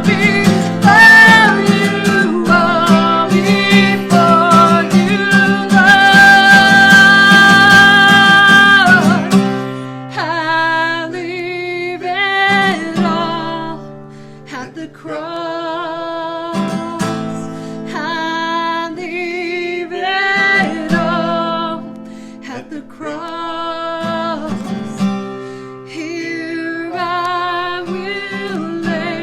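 Acoustic guitar strummed under a singer's voice, a song with held, wavering notes. It is loudest over the first nine seconds, peaking on a long held note, then goes on more quietly in shorter phrases.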